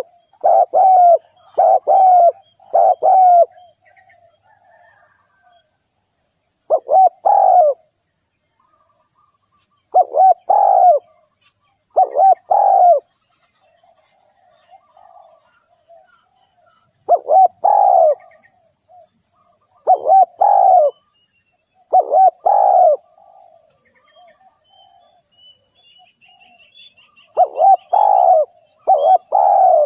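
Spotted dove cooing: short groups of low coos repeated every few seconds, with a rapid run of coos at the start and again near the end. It is a decoy call used to lure wild spotted doves.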